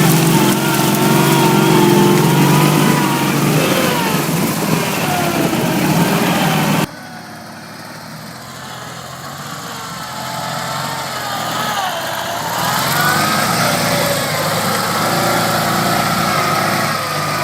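Ural motorcycle's flat-twin engine running loudly with a wavering pitch, cut off abruptly about seven seconds in. A quieter engine sound with rising and falling pitch follows.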